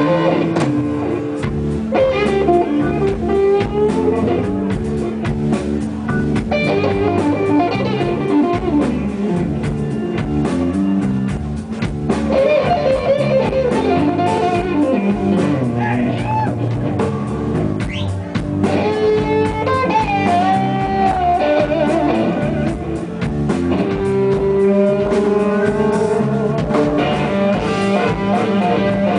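Blues band playing live without vocals: an electric guitar lead with bent, held notes over bass and a drum kit.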